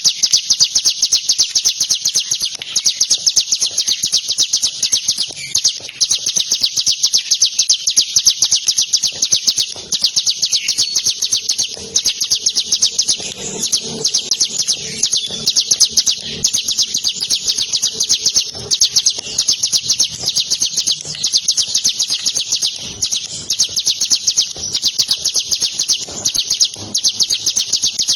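Ciblek (prinia) singing its rapid-fire 'tembak' song: a fast, unbroken run of sharp, high chirping notes, pausing only briefly a couple of times.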